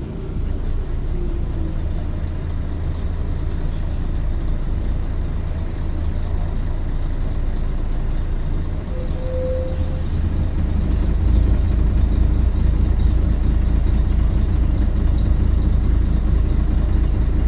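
Scania L113CRL bus's 11-litre six-cylinder diesel engine running steadily, a low rumble that grows louder about two-thirds of the way through.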